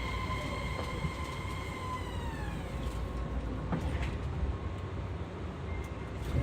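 Fukuoka City Subway 2000-series train with a Hitachi hybrid SiC VVVF inverter: the inverter and traction-motor whine is a set of steady high tones that glide down in pitch together about two to three seconds in and then fade. Underneath is the low rumble of the running car in the tunnel, with a few brief clicks.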